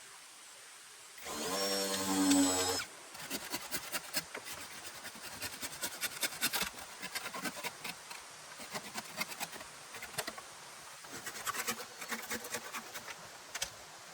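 A small motor runs steadily for about a second and a half near the start, followed by a long run of irregular clicks and crackles.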